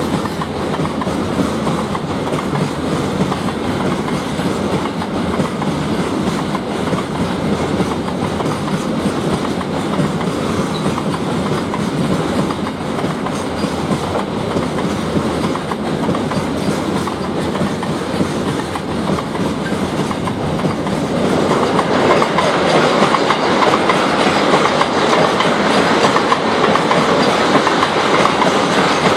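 Train rolling past on the rails: steady rumble and clickety-clack of wheels over rail joints, growing louder about two-thirds of the way in.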